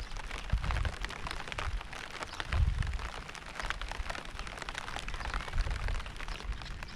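Steady rain falling, a dense patter of drops, with short low rumbles three times.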